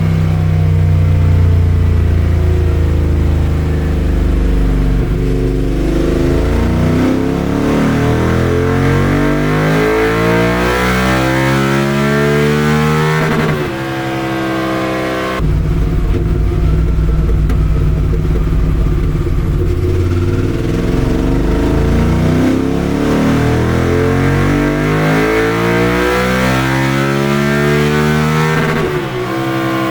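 QJ Motor SVT650X's V-twin, fitted with an Arrow Racetech exhaust, pulling at full throttle on a dynamometer, its pitch climbing steadily for about thirteen seconds before the throttle shuts and it falls away. A second identical pull follows and ends just before the close.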